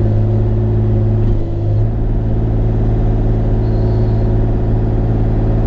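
Bobcat E35i mini excavator's diesel engine running steadily at about 2200 RPM, just under full throttle. Its note dips and shifts briefly about a second and a half in.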